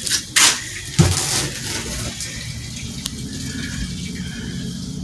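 A few knocks and rustles, then steady running water with a low hum beneath it, as when water is run to test for a leak.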